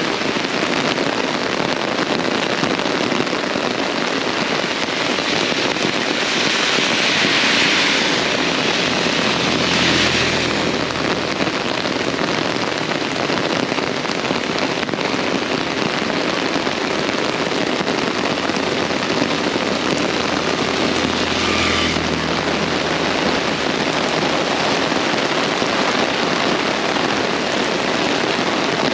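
Very heavy rain pouring steadily onto the ground and surfaces, a dense hiss. A low engine hum from a passing vehicle rises under it about ten seconds in and again about twenty-one seconds in.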